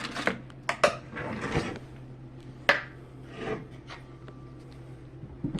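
Kool-Aid being mixed in a container: a few sharp clinks and knocks, the sharpest a little under three seconds in, with short rubbing scrapes between them.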